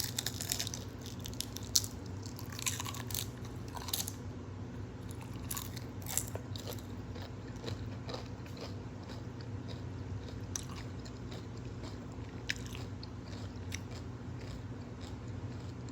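Close-up mouth sounds of biting into and chewing a tortilla wrap of hummus and cucumber, the cucumber crunching. The crunches come thick in the first few seconds and more sparsely as the chewing goes on.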